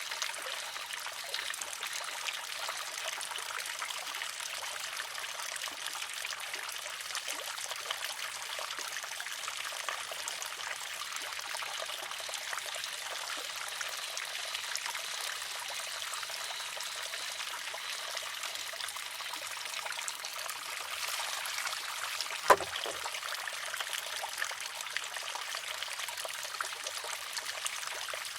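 Water trickling steadily into a wooden shishi-odoshi. About three-quarters of the way through, the filled arm tips and strikes its stone with a single sharp clack.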